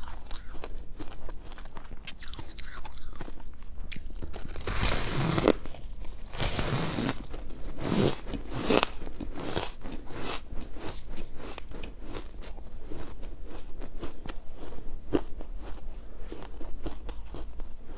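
A person biting and chewing freezer frost: a steady run of crisp, close crunches, with louder, longer crunches about five, seven and eight to nine seconds in.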